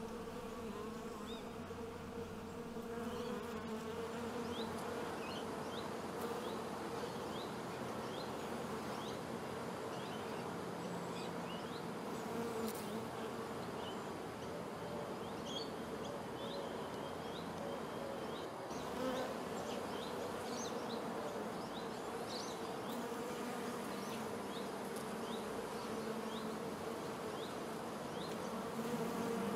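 Honey bees buzzing steadily while foraging on flowers, a constant low wingbeat hum, with short high chirps scattered through it.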